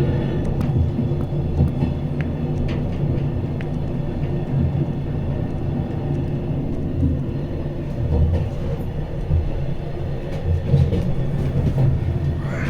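Glacier Express train running: a steady low rumble with uneven surges and occasional light clicks.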